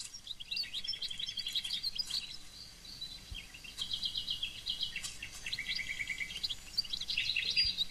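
Birds calling: rapid high-pitched chirps and short trills, coming on and off, with a quieter spell in the middle.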